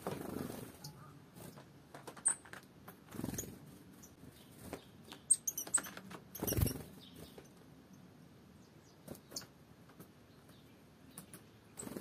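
A small tit's wingbeats and pecking at seeds on a cloth-covered board, slowed down. Soft drawn-out wing whooshes come three times, the loudest near the middle, among scattered sharp taps and a few short high chirps.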